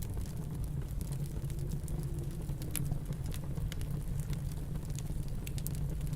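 Wood fire crackling, with scattered irregular sharp pops and snaps over a steady low rumble.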